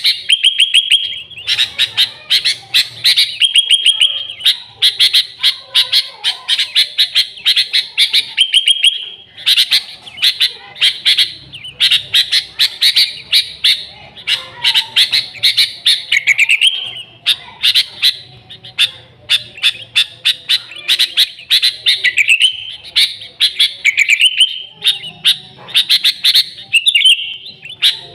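Sooty-headed bulbul calling without pause: fast runs of sharp, clear chirps with short trills and rising phrases in between.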